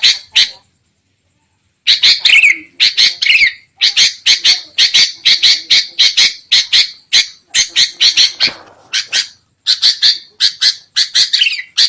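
Sooty-headed bulbuls giving rapid, harsh, agitated chattering calls, several notes a second with a few downward-sweeping notes mixed in, after a short break about half a second in. This is the noisy alarm chatter that trappers play as a lure.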